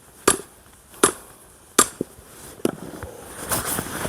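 Axe striking a short firewood log four times, about three-quarters of a second apart, in splitting it.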